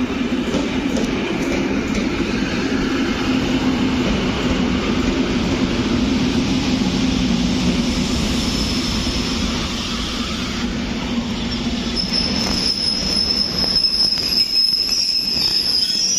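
ED72A electric multiple unit rolling slowly past along the platform with a low steady drone, then a thin high-pitched squeal from the wheels and brakes about three-quarters of the way in as it slows.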